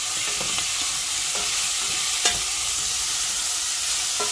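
Chicken and potato pieces sizzling steadily as they fry in rendered chicken fat in a pan, being stirred. A sharp knock, such as a utensil striking the pan, a little over two seconds in.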